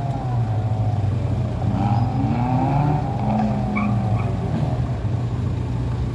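Car engine running steadily, with tyres squealing in wavering tones that rise and fall.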